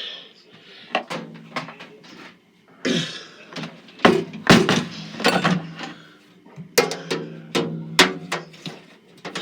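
A series of sharp knocks and clunks, several close together in the second half, over a steady low hum: an old Sunbeam microwave and the things around it being handled.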